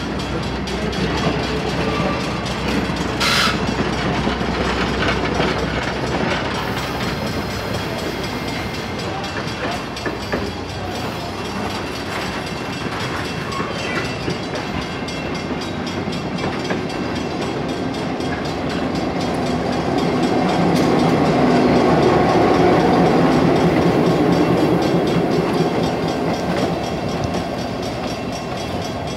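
Passenger coaches of a diesel excursion train rolling slowly past, their steel wheels rumbling and clicking over the rail joints. About two-thirds of the way through, the sound swells as the shoving EMD GP-9 diesel locomotive at the rear goes by.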